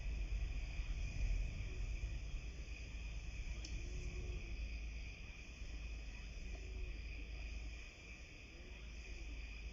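Steady insect chorus, a continuous high-pitched trilling that does not break, over a low rumble of wind or handling noise on a phone microphone.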